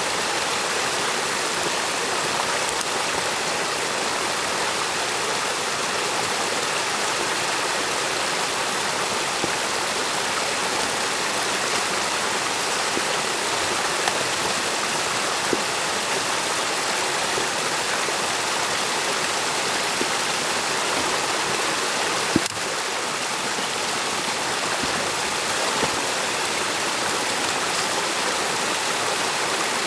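Stream water rushing steadily through a beaver dam. A single sharp click sounds about two-thirds of the way through.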